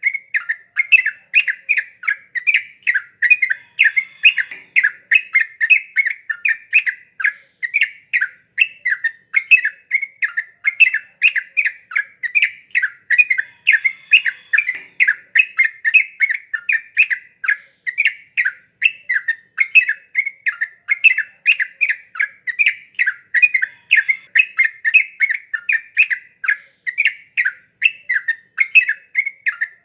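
Yellow-vented bulbul (trucukan) singing nonstop in full 'gacor' song: a loud, unbroken stream of short chattering notes, about three to four a second.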